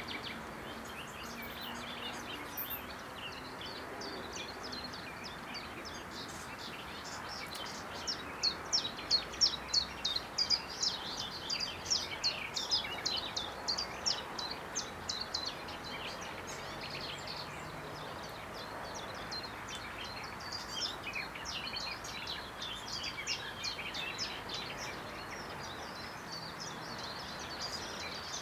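Small birds singing: quick runs of short, high chirps, busiest and loudest about a third of the way in, over a steady outdoor hiss.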